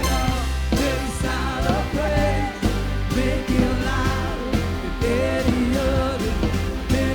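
Upbeat Christian pop-rock worship band music: drums keeping a steady beat, a heavy bass, and a lead melody line bending in pitch over the top.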